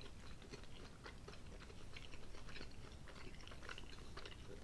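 Close-up mouth sounds of people chewing mouthfuls of pizza: faint, irregular wet clicks and smacks.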